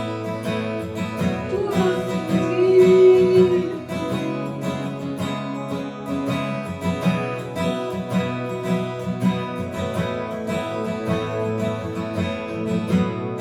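Instrumental passage of a worship song: acoustic guitar strummed in a steady rhythm, with a long held note rising above it about two seconds in.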